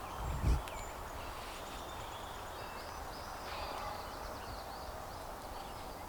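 Outdoor background noise with faint, scattered songbird chirps, and one low thump about half a second in.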